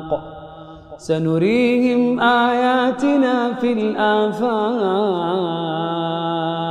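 A man's voice reciting the Quran in the melodic chanted style of tajwid. After a brief pause at the start, he rises into long held notes with wavering ornaments, drawing out a single word.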